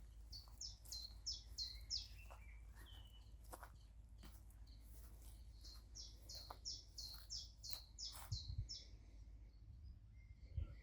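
A songbird singing runs of quick, high, downward-slurred notes, about three a second, one run at the start and a longer one in the middle. Under it a faint low rumble, with scattered soft clicks and a light thump near the end.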